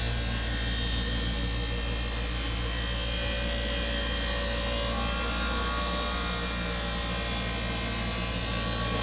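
Electric power tool running steadily and cutting metal exhaust pipe, a continuous high-pitched motor and cutting sound with a low hum beneath and slight shifts in pitch around the middle.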